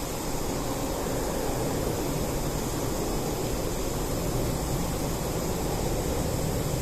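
A wood bonfire burning with a steady rushing noise, without distinct crackles or pops.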